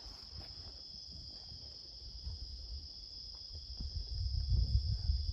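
Steady, high-pitched chirring of insects in the countryside, holding at an even pitch, with a low rumble coming in about four seconds in.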